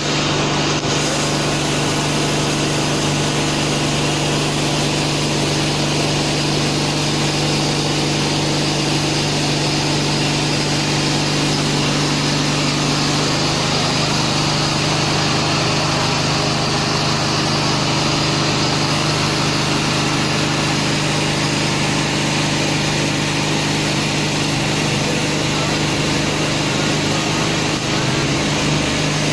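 Vehicle engine running steadily while travelling, a constant hum with road and wind noise, its note shifting slightly about halfway through.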